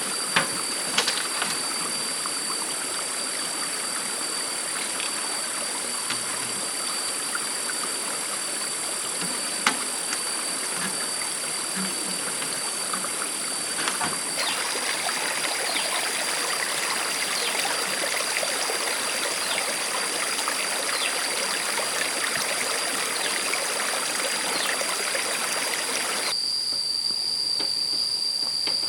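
Stream water running, with insects buzzing steadily at a high pitch. A few sharp clicks come early on. Near the end the water sound cuts away abruptly, leaving the insects.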